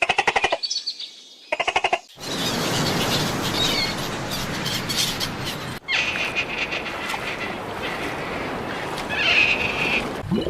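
Short clips of animal calls joined by sudden cuts: two quick bursts of rapid pulsed calls, then birds chirping over steady outdoor background noise.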